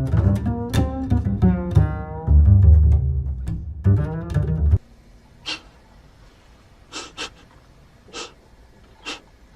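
Drama score of low bowed and plucked strings, cello and double bass, that cuts off suddenly about five seconds in. Then it is quiet, with a few short soft sounds.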